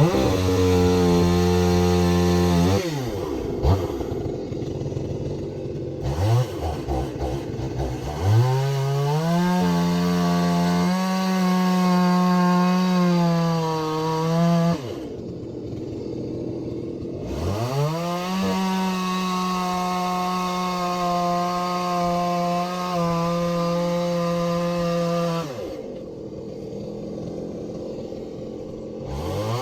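Chainsaw cutting firewood logs. It runs at full throttle, drops back toward idle about three seconds in, then revs up for two long cuts of about six and eight seconds with a drop to idle between them, and revs up again near the end.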